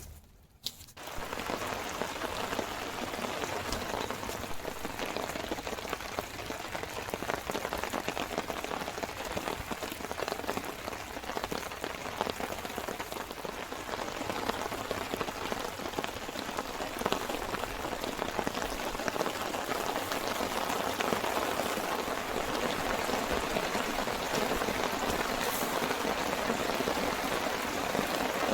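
Steady rain falling, a dense spread of many small drop hits, starting suddenly about a second in and growing slightly louder towards the end.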